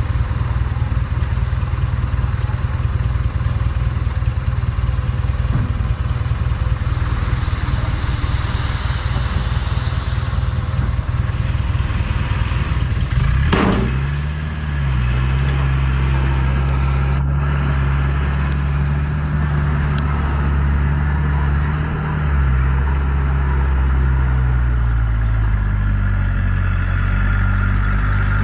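Heavy earthmoving machine's diesel engine running, rough and rumbling at first. About halfway through, a sharp click gives way to a steadier, evenly pitched engine drone that changes pitch a couple of times.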